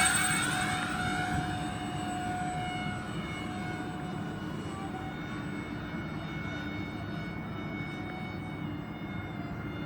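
Electric ducted fans of a radio-controlled Airbus A330-600 model airliner whining with several steady high tones as it flies, fading over the first few seconds as it pulls away and then holding at a lower level.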